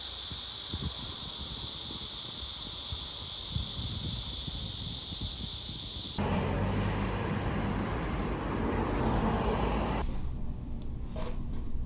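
A steady, high-pitched hiss of noise that cuts off abruptly about six seconds in to a duller, lower rushing noise, which drops away about ten seconds in, leaving a faint noise with a few soft ticks.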